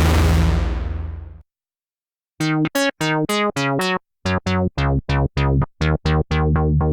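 Cherry Audio P10 software analog-polysynth playing bass presets. The previous sound dies away over the first second and a half. After a second of silence, a new bass patch plays a rhythmic run of short, bright staccato bass notes, about four a second, at changing pitches.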